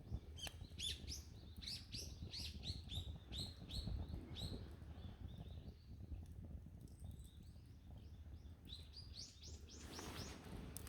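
Small birds chirping in quick series of short, high, falling notes: one run in the first few seconds and another near the end, over a faint low rumble.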